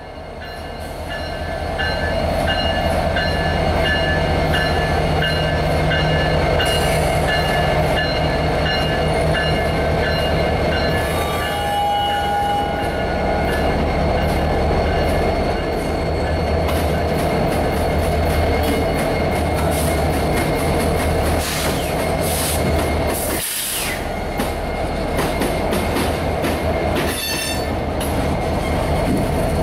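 Two Norfolk Southern EMD SD70ACe diesel locomotives passing close by at the head of a tank-car train, engines running under load. The freight cars follow, rolling by with a steady high wheel squeal through the first half and clicking over rail joints in the second half.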